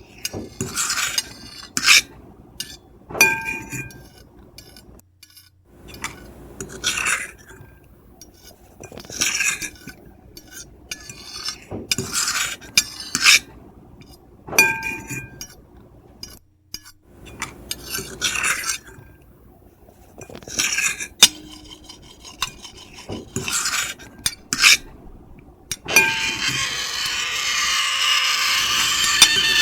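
Metal fork and knife scratching across a plate in a series of short, irregular strokes, some with a brief shrill squeal. Near the end they go into one long continuous scrape.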